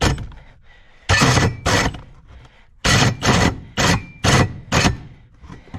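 Electric drill with a large bit boring into the wall in about seven short bursts, each cut off after a fraction of a second: the drill's jam sensor stops it when the big bit binds.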